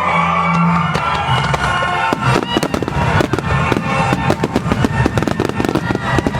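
Music from the display's loudspeakers, then about two seconds in a rapid barrage of fireworks starts: many sharp bangs and crackles a second over the music.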